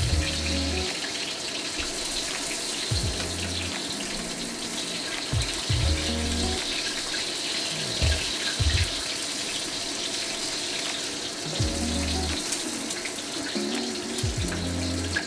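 Pork meatballs sizzling steadily in hot oil and rendered fat in a wok as they sear. Lo-fi background music with a deep bass line and a soft beat plays over it.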